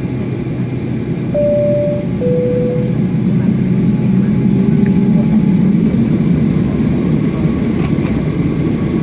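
Steady low rumble of a Boeing 757-200's cabin with the engines running, swelling a little about three to four seconds in. About a second and a half in, a two-tone high-low cabin chime sounds once.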